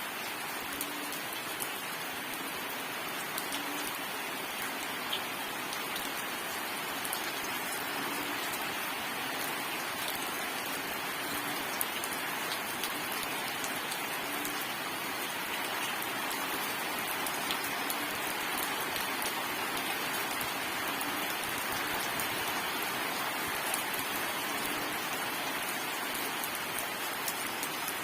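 Steady rain falling: an even, unbroken hiss with scattered sharper ticks of individual drops.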